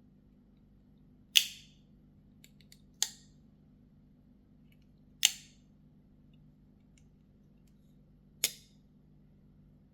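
Mini Bowie titanium liner-lock flipper knife being flicked open and snapped shut, four sharp metallic snaps with a brief ring, a few light ticks between the first two.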